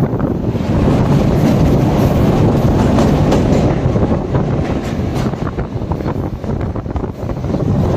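Train running on rails, a steady rumble with a scattered clatter of wheels.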